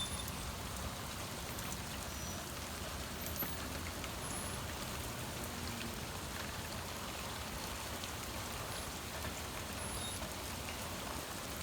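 Steady rain falling in a thunderstorm, an even hiss of rain on surfaces, with the last of a low thunder rumble dying away at the very start.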